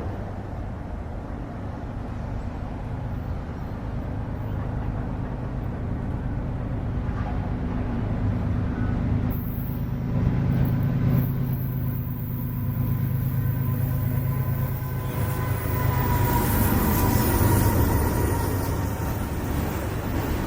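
Diesel-electric freight locomotive running by, its engine drone steady and growing louder, with rail and wheel noise and faint high wheel tones joining in the second half.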